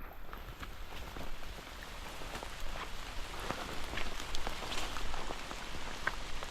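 Rain falling, with many separate drops ticking close by at an irregular rate over a steady hiss of rain.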